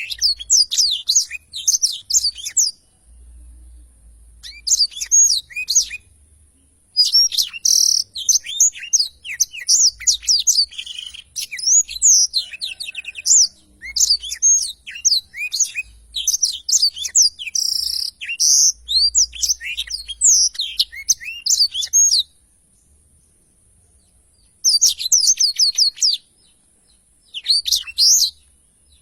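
Blackthroat (black-throated canary) singing long, rapid twittering song phrases of quick high notes. The song breaks off about three-quarters of the way through, then returns in short phrases near the end.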